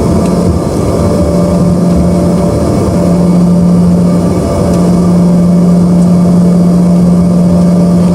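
Steady roar of an Embraer ERJ-145's rear-mounted Rolls-Royce AE 3007 turbofans heard inside the cabin, with a strong low hum that briefly drops out a few times over a wide rushing noise.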